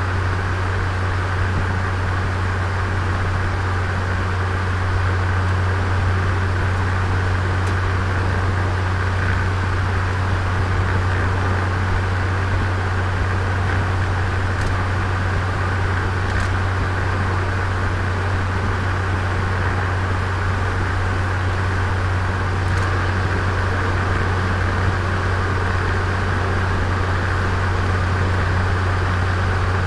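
Turbocharged Nissan Micra heard from on board, its engine running at a steady pace with a constant low hum under steady road and wind noise. A few faint ticks sound now and then.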